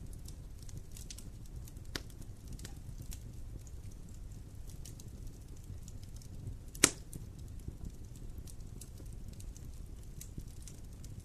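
Campfire burning with sparse, quiet crackles over a low steady rumble, and one loud sharp pop about seven seconds in.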